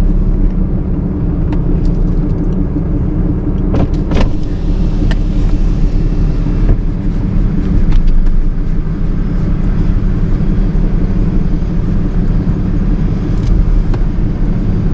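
A motor vehicle's engine running steadily with a low drone, with a couple of brief clicks about four seconds in.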